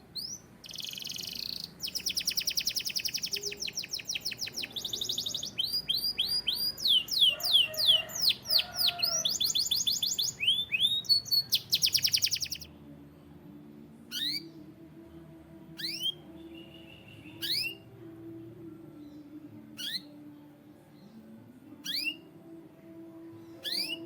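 Domestic canary singing: about twelve seconds of fast trills, rolls and swooping whistles, then single quick downward-swept notes about every two seconds.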